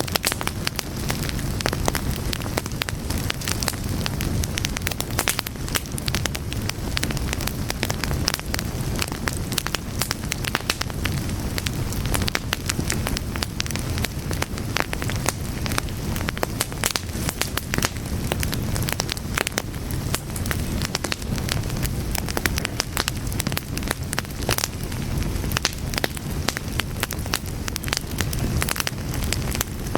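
A fire crackling steadily: many sharp, irregular pops and snaps over a low, even rumble of flames.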